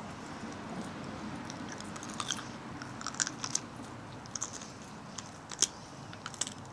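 Close-up crunching of a raw carrot stick being bitten and chewed: a series of sharp, crisp crunches starting about two seconds in.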